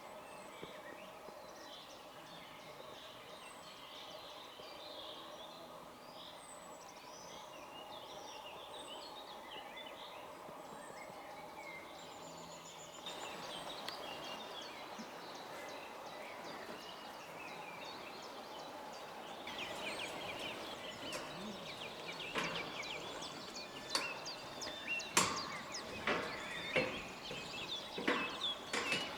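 Small birds chirping over a steady background hum. About two-thirds of the way in, a run of irregular sharp knocks and clicks starts and grows louder toward the end.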